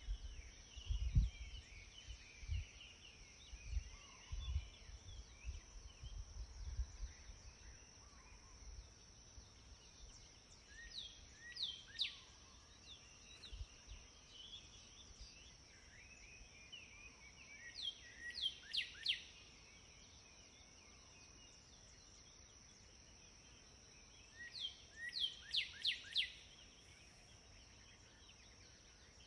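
Birdsong over a steady high hum: a bird gives a quick phrase of three or four sharply falling whistled notes, repeated three times about seven seconds apart. Soft low thumps sound during the first seven seconds or so.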